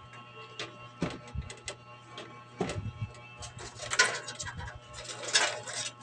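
Clicks, taps and two louder scraping rattles around four and five seconds in, as parts are handled and fitted in a PC case, over background music.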